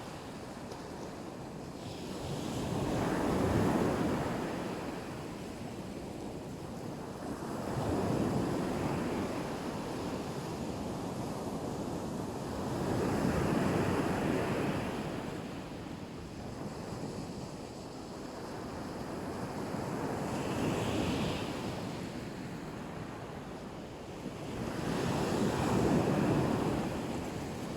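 Black Sea surf breaking on the shore, about five waves swelling and washing back at a slow, even rhythm of roughly one every five seconds.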